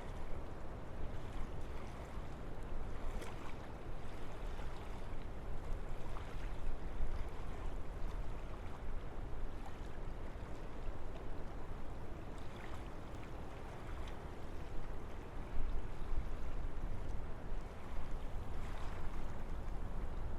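Wind blowing steadily through forest trees, an even rushing sound with brief swells now and then.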